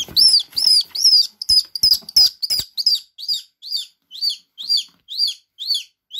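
A common swift calling in a series of short, sharp chirps, each rising and falling in pitch, quicker at first and then settling to about two a second.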